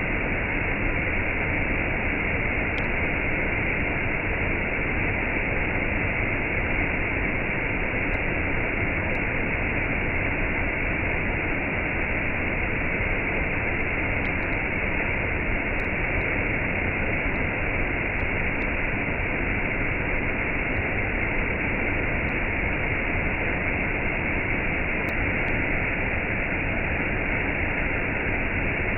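Waterfall with a cascade: steady rushing of falling water, even and unbroken, with a dull, muffled top.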